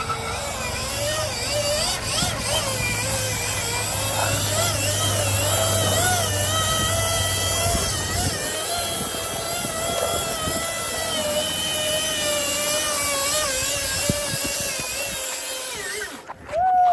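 Electric dirt bike's motor whining under way, its pitch wavering up and down with speed. Wind rumbles on the microphone for the first half.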